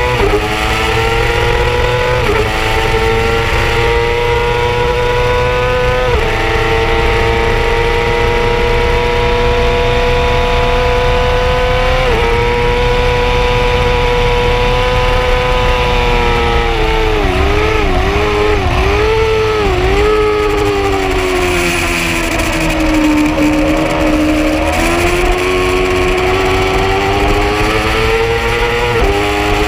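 Yamaha R6 inline-four sportbike engine at high revs. The pitch climbs and drops sharply on quick upshifts about 2, 6 and 12 seconds in. Around halfway it dips and rises several times in quick succession, then falls and climbs again near the end.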